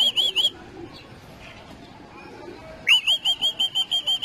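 A bird calling: a rapid series of sharp, high repeated notes, about six a second. One bout ends about half a second in and a second bout starts near three seconds in.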